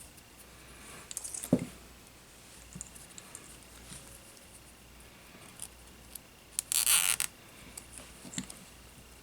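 Workbench handling noises from small tools and drone-frame parts: scattered light clicks and taps, a sharp knock about a second and a half in, and a short rasping noise lasting about half a second around seven seconds in.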